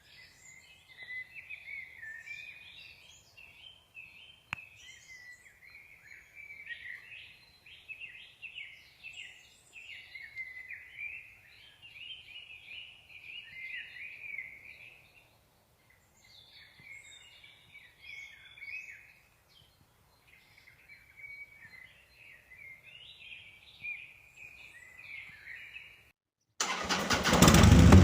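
Songbirds singing and chirping in a string of short, high phrases over a faint background hum. Near the end the birdsong drops out and loud music with guitar cuts in suddenly.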